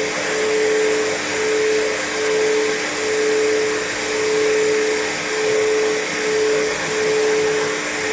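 Pet hair dryer blowing steadily while drying a cat's coat, a steady whirring with a mid-pitched hum; its loudness swells and dips about once a second.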